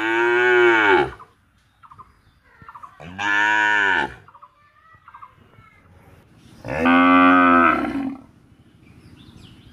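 Cow mooing three times, each moo about a second long and arching up then down in pitch, spaced roughly three seconds apart.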